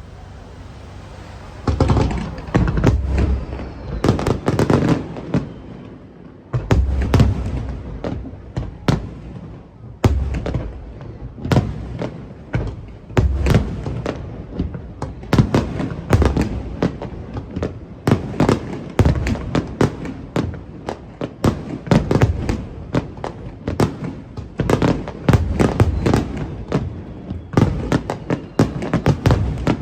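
Fireworks display: a rapid, continuous barrage of shell bursts with deep booms and dense crackling, starting about two seconds in.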